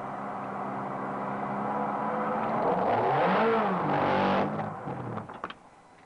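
Ferrari engine running as the car swings round on a wet surface: the revs rise and fall, with a loud hiss building alongside. About five seconds in the engine stops abruptly, with a few clicks.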